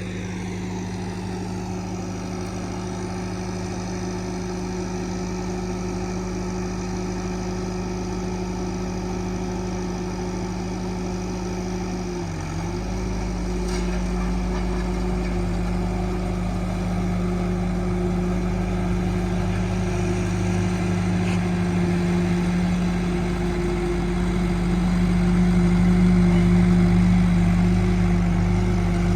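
Allis-Chalmers farm tractor engine running steadily under a working load, with a brief dip in engine speed about twelve seconds in and getting louder near the end as the tractor comes closer.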